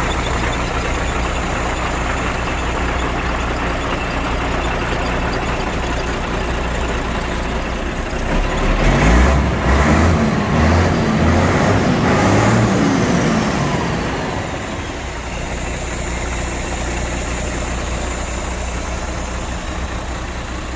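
MAN 26.361 6x4 truck's six-cylinder diesel engine idling, then revved in several quick blips about halfway through before settling back to idle.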